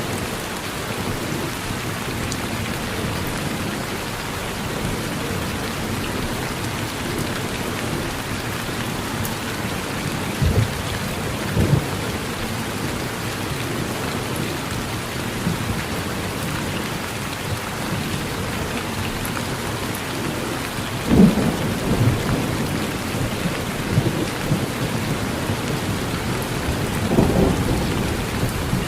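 Steady rain with thunder rumbling at intervals: low rumbles about ten and twelve seconds in, the loudest about twenty-one seconds in, and another near the end.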